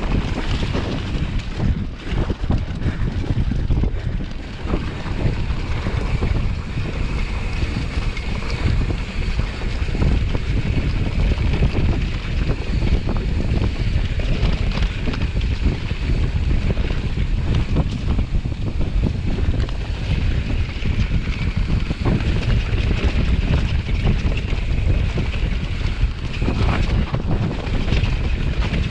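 Wind buffeting the microphone, a continuous low rumble with gusts that rise and fall.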